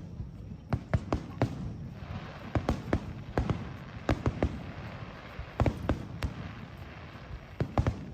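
Fireworks bursting: a rapid, irregular string of sharp bangs and pops, several of them in quick clusters.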